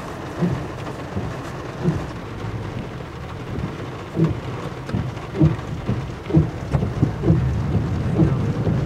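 Rain hitting a vehicle's roof and windshield, heard from inside the cabin: a steady wash of rain with a low rumble underneath and irregular louder knocks of drops, more of them in the second half.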